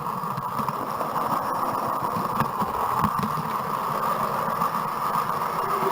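00 gauge model train running along the layout's track, heard from a small camera riding on the train: a steady rolling hiss and rumble with irregular light clicks as the wheels pass over the rail joints.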